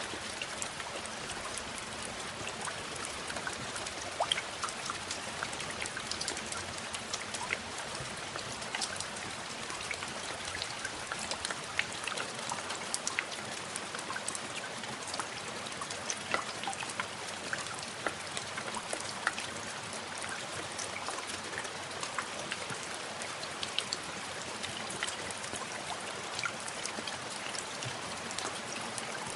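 Steady rain falling, with many distinct drops pattering and ticking close by.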